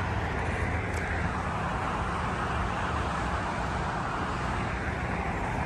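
Steady outdoor background rumble of traffic, even and unchanging, with no distinct passing vehicle or aircraft standing out.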